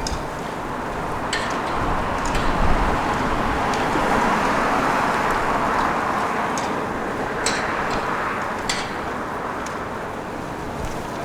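Road traffic going by, swelling as a vehicle passes about halfway through and then fading, with a few sharp clicks over it.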